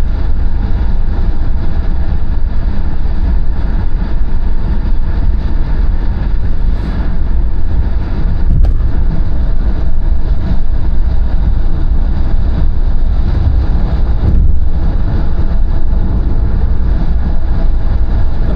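A car's steady road and engine rumble while driving at speed, with a couple of faint knocks partway through.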